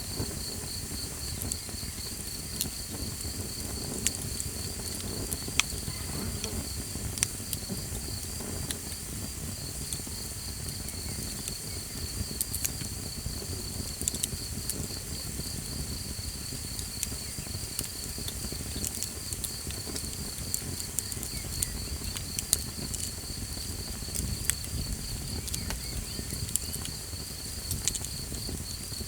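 Small campfire crackling, with scattered sharp pops over a low rumble of burning, against a steady pulsing chirp of night insects that does not let up.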